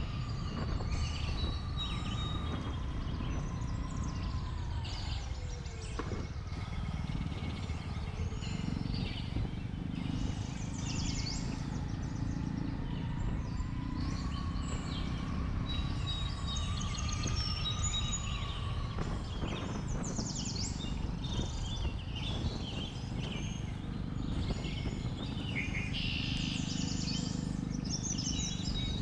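Jawa 42 motorcycle riding downhill: a steady low rumble of engine and wind, with a thin whine that drifts slowly up and down in pitch. Birds chirp over it.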